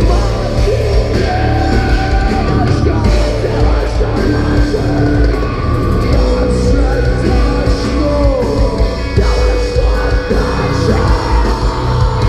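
Live heavy rock band playing loud, with distorted guitars, bass and drums, and a singer shouting and singing over them.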